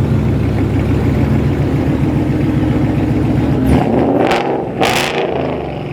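A car engine running with a deep, steady low note, then revved twice in quick succession near the end.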